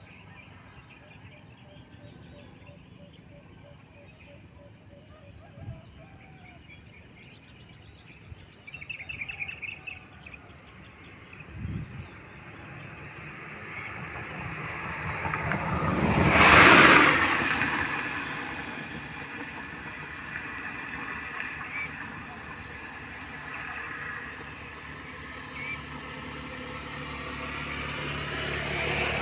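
Steady insect chirring, with a vehicle passing by about halfway through: it grows loud, peaks and fades over several seconds. Another vehicle begins to approach near the end.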